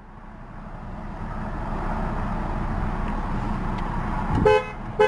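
A rushing noise swells for about four seconds. Near the end come two short car-horn toots, each on a two-note pitch.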